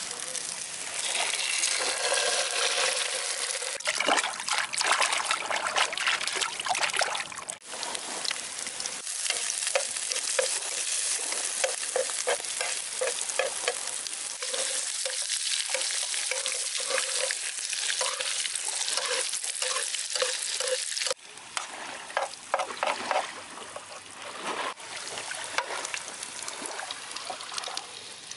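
Sliced onions and an egg sizzling as they fry in oil in a pan, with a utensil repeatedly stirring and scraping against the pan.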